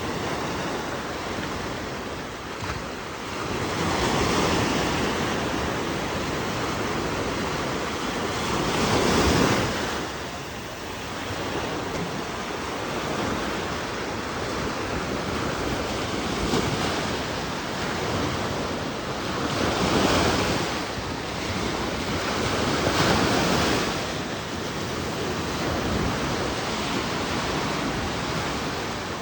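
Ocean waves breaking and washing on the shore, a steady rush of surf with louder swells every few seconds, and some wind.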